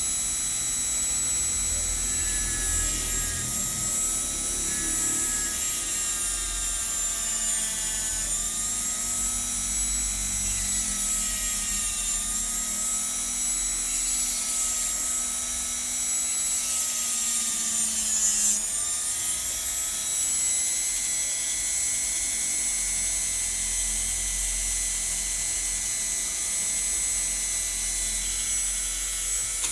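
Electric hand grinder running at high speed with a steady whine while a spectacle lens is edged against it. The pitch sags and recovers a few times as the lens is pressed in, most deeply about eighteen seconds in.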